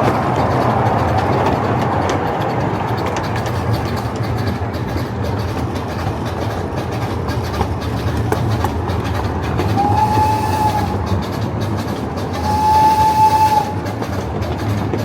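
Steady running noise of a coal-fired steam train under way. The locomotive's steam whistle blows twice near the end, a short blast and then a longer one.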